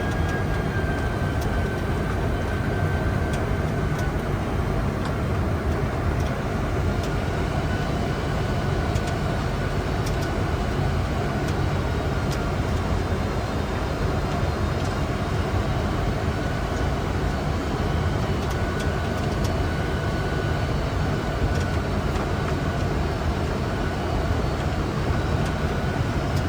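Steady rushing noise of airflow and engines heard inside a Boeing 747-400 flight deck on final approach, with a faint high whine that drops slightly in pitch about four seconds in.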